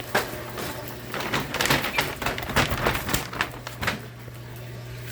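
A bag with a ball inside being handled and crinkled: a dense run of crackles that stops about four seconds in, over a steady low hum.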